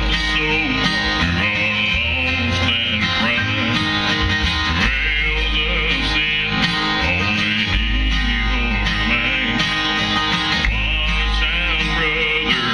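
Live bluegrass band playing with acoustic string instruments: a guitar is prominent over a plucked bass line, and no singing comes through clearly.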